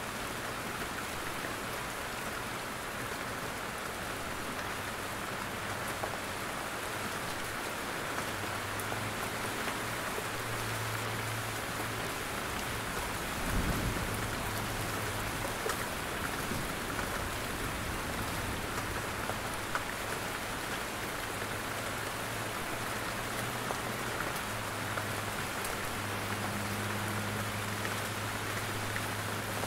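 Steady rain falling in a forest, with scattered drops pattering from the trees. A brief low rumble rises about halfway through.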